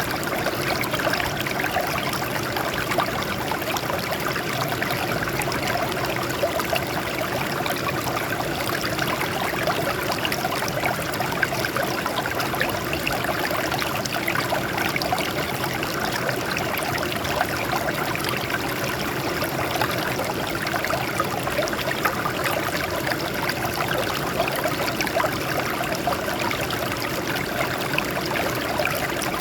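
Water trickling and splashing over rocks in a steady, unbroken flow, like a small stream or rock spring.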